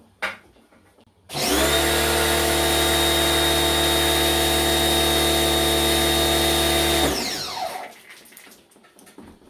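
An electric power tool's motor switches on about a second in, runs at a steady pitch for about six seconds, then switches off and winds down with a falling whine. A short knock sounds just before it starts.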